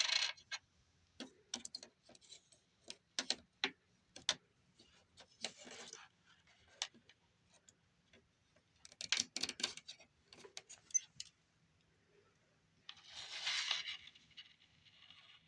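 Scattered sharp clicks, taps and short rustles from a pocket multimeter and its test leads being handled, with a longer scratchy rustle near the end.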